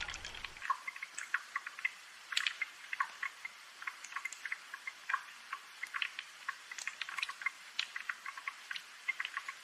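Rain dripping: a dense, irregular patter of small, sharp drops and ticks with no low rumble underneath.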